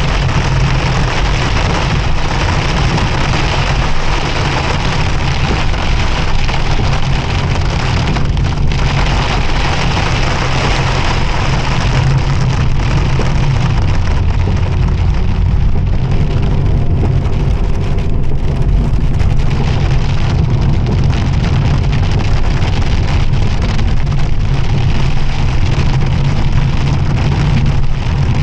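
Heavy rain hitting a moving Pontiac Firebird, a dense steady patter, over the low steady rumble of the car's engine and tyres on the wet road.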